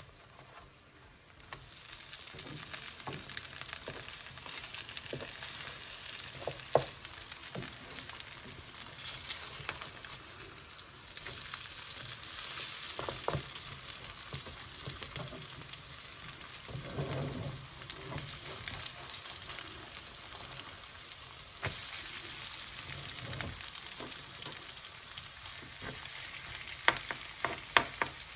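Grated-potato and egg patties frying in shallow oil in a nonstick pan, a steady sizzle, while a spatula scrapes and knocks against the pan now and then as they are flipped. There is a heavier thump in the middle and a quick cluster of sharp taps near the end.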